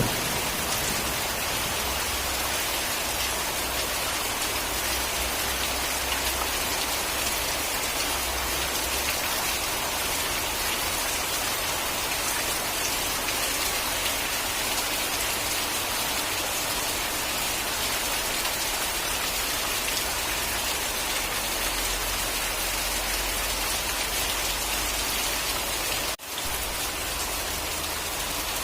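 Steady heavy rain falling, an even, unbroken hiss of drops on a surface. The sound cuts out for a split second about 26 seconds in, then resumes.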